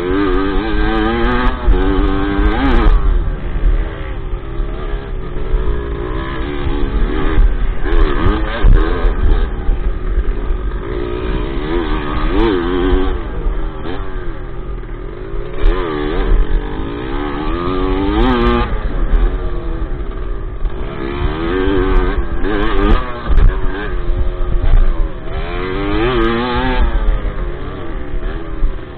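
Dirt bike engine, heard up close from the bike itself, revving up and dropping back again and again, every couple of seconds, as it is ridden around a motocross track, over a constant low rumble.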